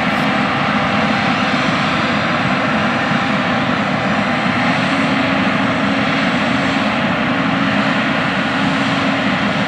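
Big John Deere S680 combines running in the field: a loud, steady diesel engine and machine drone with a held low hum that grows a little stronger about halfway through.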